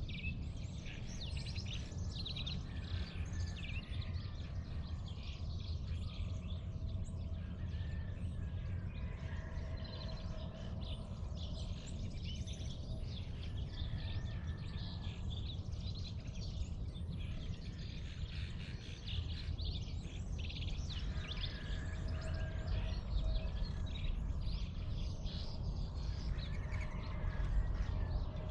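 Dawn chorus of many birds chirping and trilling over one another, over a steady low rumble.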